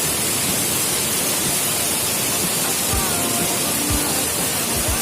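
Heavy rain pouring down steadily, with a few dull low thumps about three, four and five seconds in.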